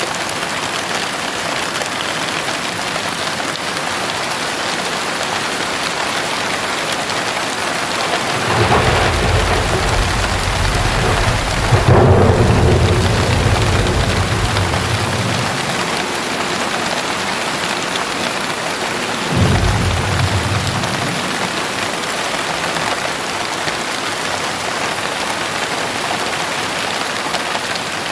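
Heavy rain falling steadily, with thunder: a rumble builds about eight seconds in, breaks into a loud crack around twelve seconds and rolls away over the next few seconds, then a shorter second rumble comes about twenty seconds in.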